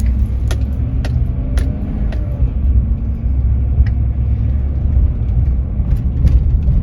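Steady low rumble of a moving vehicle, with a faint steady tone that fades out about three seconds in. A run of sharp clicks, about two a second, sounds during the first two seconds.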